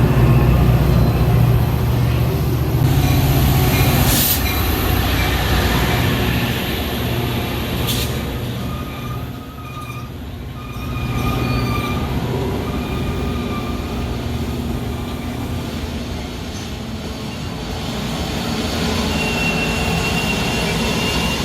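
Metra commuter train moving through the station with a steady heavy rumble, two sharp clicks in the first half, and a thin high wheel squeal near the end.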